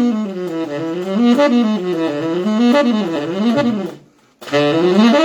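Saxophone playing fast pentatonic scale runs that climb and fall over and over, with a brief pause for breath about four seconds in.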